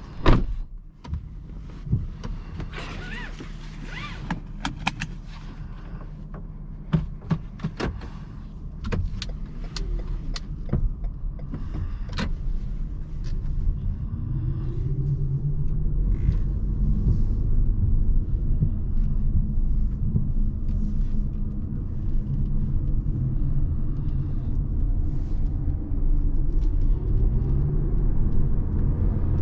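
Inside the cabin of a 2017 Lexus NX 300h hybrid: a string of sharp clicks and knocks over the first dozen seconds, then the car drives off. Engine and road noise build steadily, and the engine note rises twice as it speeds up.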